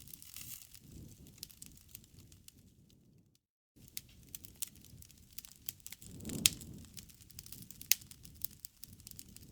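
Bonfire crackling: irregular sharp pops and snaps of burning wood over a low rustle, with a louder pop about six and a half seconds in. The sound cuts out completely for a moment about three and a half seconds in.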